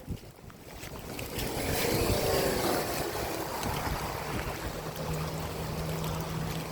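A vehicle driving through deep floodwater: a rush of displaced water swells up about two seconds in, and the engine's steady low hum carries on through the latter part.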